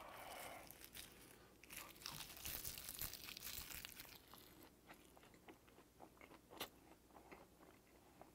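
Faint crunching and chewing of a mouthful of bibimbap wrapped in roasted laver (gim), loudest about two to four seconds in, then quieter chewing with small clicks and one sharp click near two-thirds through.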